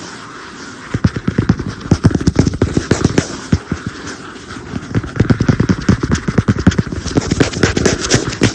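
Fast, dense tapping on an iPad, starting about a second in. It eases off briefly near the middle, then picks up again.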